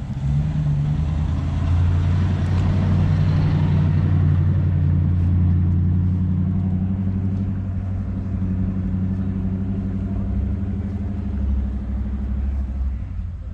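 A car engine running slowly close by, with a low, steady note. It swells in the first second or two and fades near the end, as a car rolling slowly past would.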